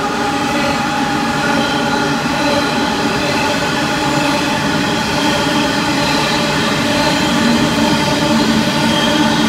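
An Aurizon coal train's hopper wagons roll steadily past on the nearby track, making a continuous rumble with steady high-pitched tones over it.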